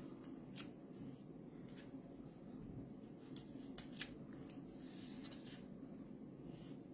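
Faint crinkling, rustling and light ticks of card stock and vellum being handled and pressed down, a dozen or so scattered small sounds rather than a rhythm.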